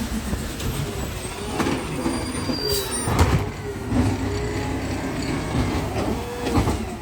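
Garbage truck at work: engine running with squealing and whining from its moving parts, and a few metal clanks and bangs about two to three seconds in.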